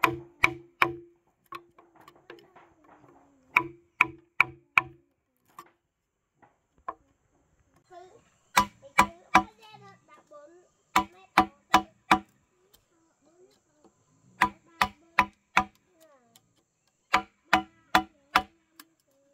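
Hand tool striking repeatedly, in quick groups of about four sharp blows with a short ringing tone on each. The groups come roughly every three seconds.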